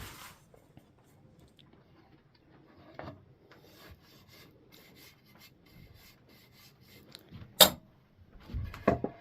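Faint, rhythmic scraping strokes of a hand tool working wood, about two a second, then one sharp knock near the end.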